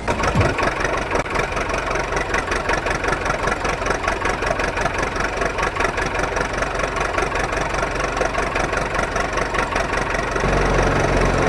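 Engine idling with a rapid, even chugging that stays steady throughout; a deeper steady tone joins near the end.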